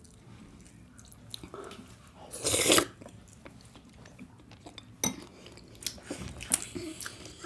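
A person chewing and biting food, wet chewing clicks throughout, with one loud, noisy half-second bite or slurp about two and a half seconds in.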